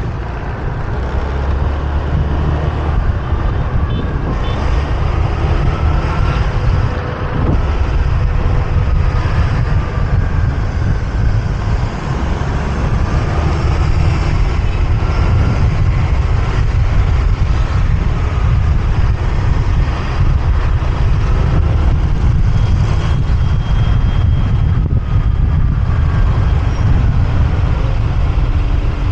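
Motorbike riding through city traffic: a steady, loud low rumble of engine and road noise, with other vehicles' engines rising and falling in pitch around it.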